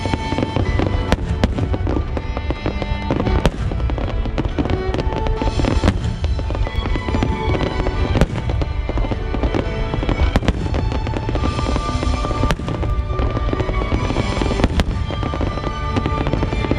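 Aerial firework shells bursting in a dense barrage: sharp bangs about once a second with crackling and rumble between them, while music with sustained tones plays alongside.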